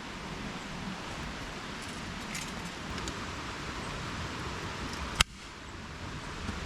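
Steady rush of flowing stream water, with a few faint taps and rustles and one sharp click about five seconds in.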